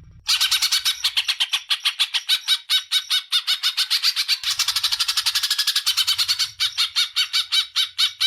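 Songbird masteran recording of harsh 'kasaran' chattering: a rapid, continuous run of rough notes at about ten a second.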